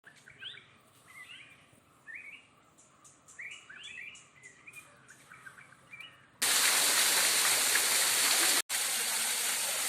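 Birds calling with short, repeated rising chirps. About six and a half seconds in, the audio switches abruptly to the loud, steady rush of a waterfall, broken by a brief dropout.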